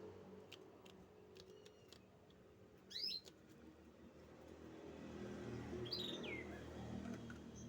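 Canary giving a few short chirps, the loudest about three seconds in and another sliding down in pitch near six seconds, with faint ticks between them, over a low steady hum.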